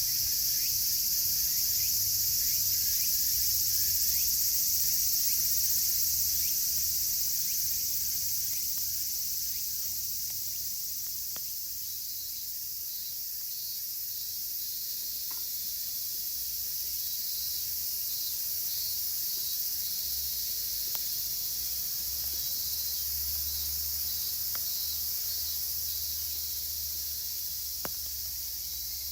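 Dense, steady, high-pitched chorus of cicadas calling together, with a few faint crackles from a wood campfire.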